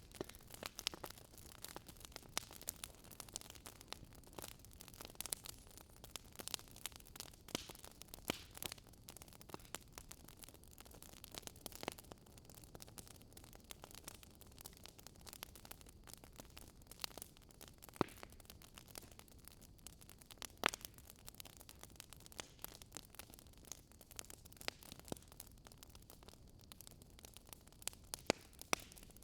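Fire in a fireplace crackling, with irregular sharp snaps and pops over a faint steady hiss.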